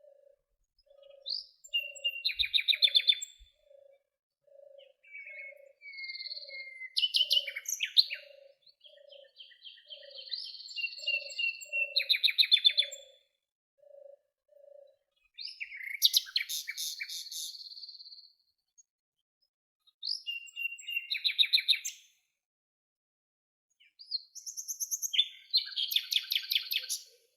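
Songbirds singing in separate phrases of a second or two, high-pitched with fast trills, with short silent gaps between them. During the first half a soft low note repeats about twice a second.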